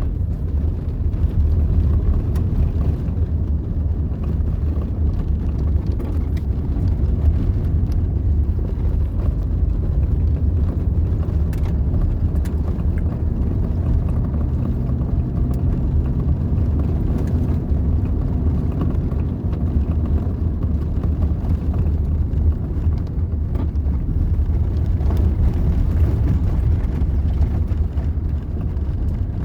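Steady low rumble of a moving vehicle, its engine humming evenly with no change in speed.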